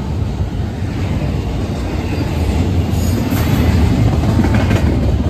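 BNSF double-stack intermodal freight train rolling past close by: a steady rumble of wheels on rail and railcars, growing louder about three seconds in, with brief higher-pitched metallic squeals then and again near the end.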